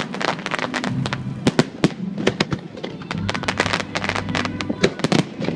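Fireworks display going off: a dense, irregular run of sharp cracks and pops from bursting aerial fireworks, several a second.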